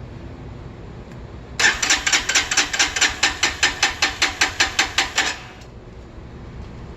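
Lifan KPR 200's electric starter cranking its single-cylinder engine in an even pulsing rhythm, about five beats a second, for nearly four seconds, then stopping without the engine catching: the bike won't start.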